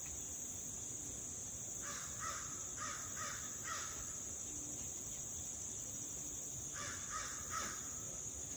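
A bird giving short harsh calls in two runs, about five calls a couple of seconds in and three more around seven seconds in, over a steady high-pitched drone.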